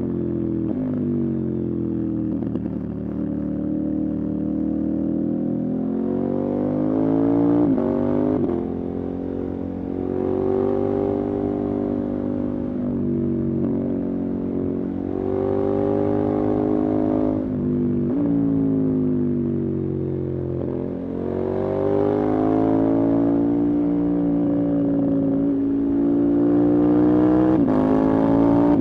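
Motorcycle engine running under way, its pitch rising and falling with the throttle and changing abruptly at several gear shifts.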